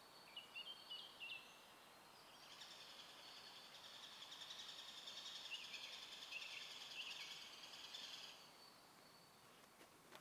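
Faint songbird calls: a few short high chirps, then a long, continuous twittering song from about two and a half seconds in that stops near eight seconds.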